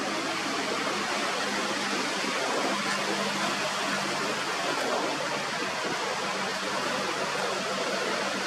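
Steady wind blowing across the microphone: an even, unbroken hiss.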